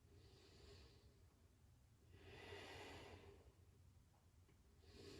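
A woman breathing slowly and faintly, three breaths about two seconds apart.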